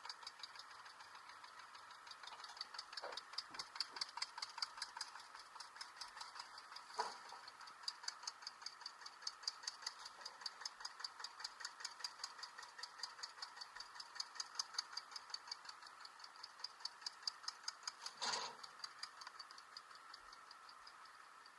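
Faint, even ticking at about four ticks a second, with a few louder single knocks about three, seven and eighteen seconds in.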